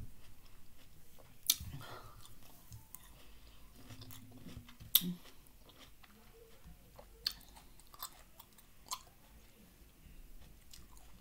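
Chewing and biting on green grapes coated in cornstarch, with several sharp clicks spread through it.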